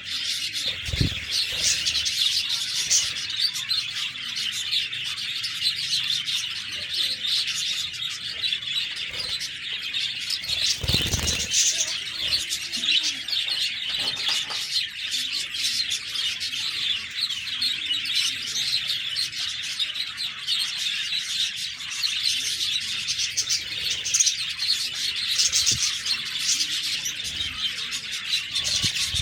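A flock of budgerigars chattering and chirping continuously in a dense, overlapping warble, with a couple of brief low thumps mixed in.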